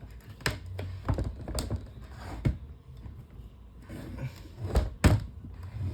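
Irregular clicks and knocks from handling an electric fan and its parts, the loudest about two and a half and five seconds in, over a steady low hum.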